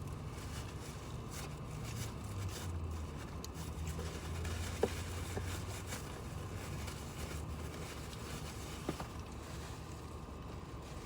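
A low, steady rumble with faint background noise, and two small clicks about five and nine seconds in.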